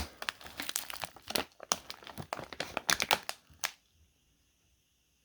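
A granola box and its packaging being handled and turned over, crinkling and crackling in quick irregular clicks that stop after about three and a half seconds.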